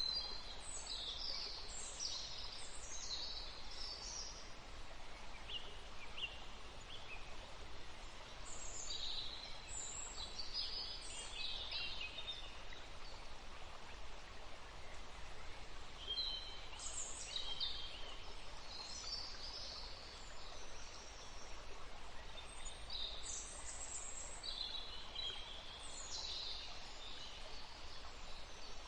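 Small songbirds singing in bouts of rapid, high chirps and trills, a few seconds each, coming back about every six to eight seconds. A steady outdoor hiss runs underneath.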